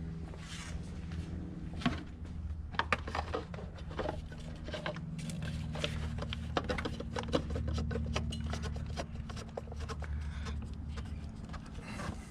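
Irregular clicks, taps and light metallic rattles of parts and tools being handled, starting about two seconds in, over a steady low hum.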